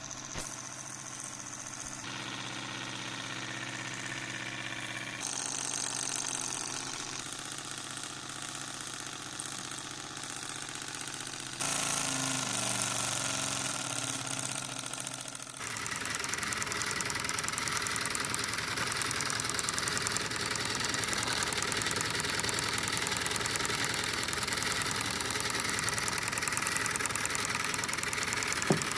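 Small model engines running, heard as a run of short clips cut together, each with its own steady hum. Between about 12 and 16 s the engine sound glides up and down in pitch, and from about 16 s a faster, noisier-running engine takes over.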